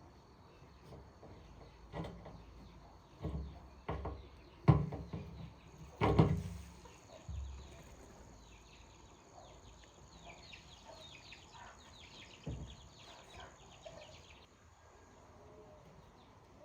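A handful of irregular sharp knocks, the loudest two in the middle, with one more near the end. Birds chirp and insects drone faintly in the background, with a quick run of chirps late on.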